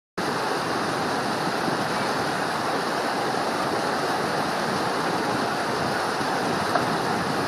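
Steady, even rush of running water, cutting in suddenly just after the start.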